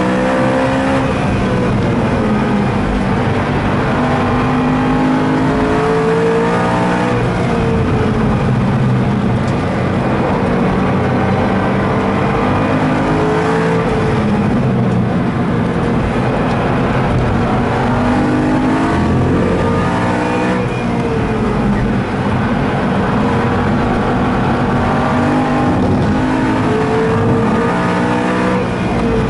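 BMW M3 E92's V8 engine at full racing pace, heard from inside the cabin: it climbs in pitch again and again under hard acceleration and falls back at each shift or braking point.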